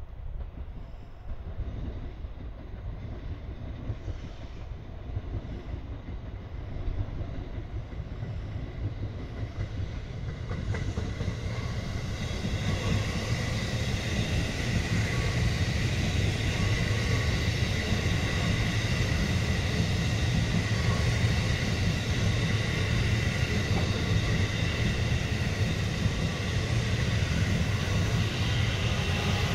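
JR West Special Rapid electric multiple-unit train passing on the rails. It is faint at first, swells about a third of the way in, and stays loud as the cars run by, with the wheels running on the rails and a steady high tone over them.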